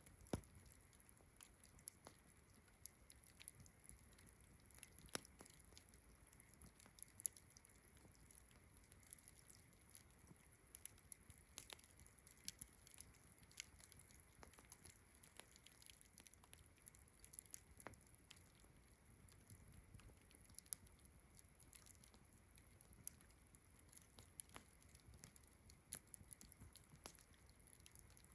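Campfire crackling softly, with irregular sharp pops, over a faint steady chorus of crickets.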